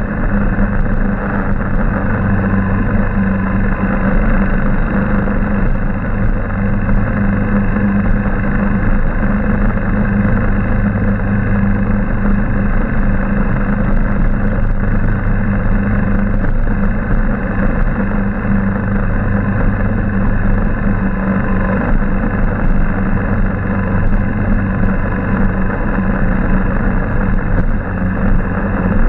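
Motorcycle engine running at a steady pace while riding, a constant hum under a dense rush of wind and road noise.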